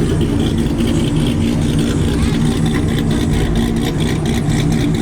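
Car engine at low revs, a deep, steady exhaust rumble with no revving.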